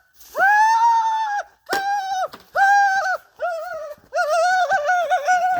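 A high-pitched, pitched-up cartoon-style voice making a run of drawn-out wordless notes. There are five or six separate sounds, and the last, longer one wobbles up and down.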